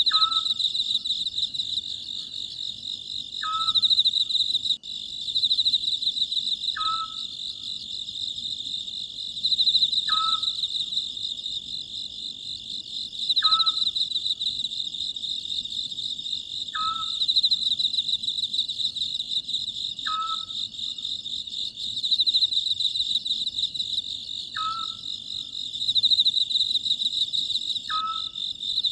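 An Oriental scops owl calling, a short clear note repeated nine times at about three-second intervals, over a steady chorus of crickets whose pulsing trill swells and fades every few seconds.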